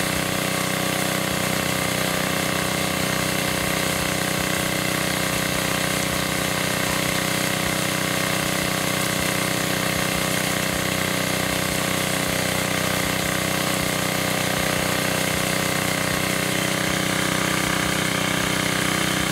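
Small gasoline engine of a homemade 2-inch gold dredge running steadily at a constant speed.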